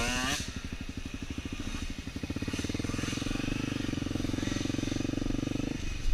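Dirt bike engine running with an even pulsing beat, picking up to a higher steady note about two seconds in and dropping back shortly before the end.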